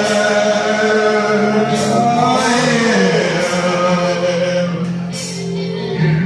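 Live karaoke singing of a grunge rock song: male voices singing long, drawn-out notes over the recorded backing track.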